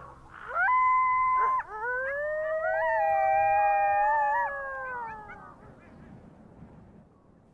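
Wild canids howling. One howl rises and holds steady for about a second, then two or more voices rise and howl together, one wavering near the end, before fading out.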